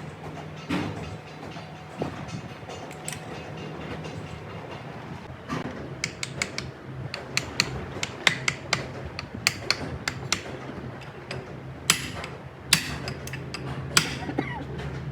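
Sharp metallic clinks and clanks of tools and gearbox parts being handled, sparse at first and coming thick and irregular from about six seconds in, over a steady low hum.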